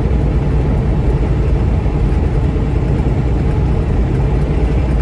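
A vehicle's engine running with a steady low drone under a constant rumble of noise.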